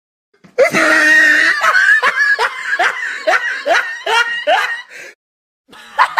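A laughing sound effect: one person laughing in a quick run of repeated pitched "ha" notes that tail off after about four seconds. A short burst of another sound follows near the end.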